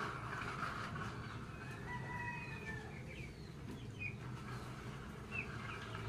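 A faint, drawn-out bird call about two seconds in, falling slightly at its end, followed by a few short, high chirps.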